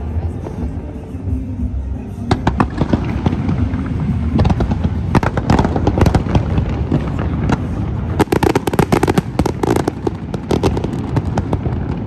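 A fireworks display: bangs and crackling shell bursts that come thick and fast from about two seconds in, building to a dense crackle over the last few seconds.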